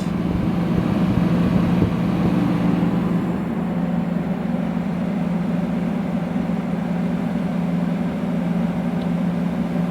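Vintage Fedders window air conditioner running, a steady hum from its motor under the even rush of its fan blowing air.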